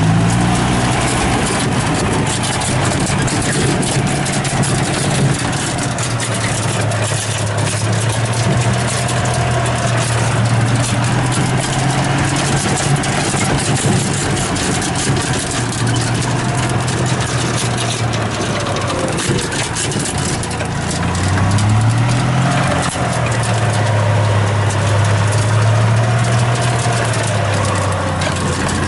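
An engine running steadily, its pitch dipping and climbing back about three-quarters of the way through, over a constant crackling noise.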